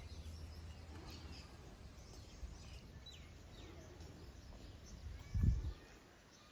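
Faint bird chirps, short falling notes, over low background rumble, with one low thump about five seconds in.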